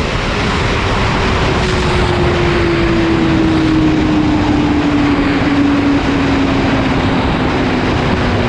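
Sport motorcycle engine running under a loud rushing noise, its pitch sliding slowly and steadily down as the revs fall.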